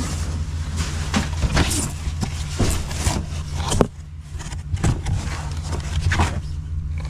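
Items being handled and rummaged through in a storage locker: a run of irregular clicks, knocks and light scrapes over a steady low hum.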